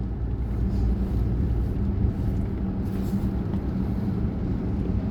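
Steady low rumble of a car on the move, heard from inside the cabin, with a faint steady hum.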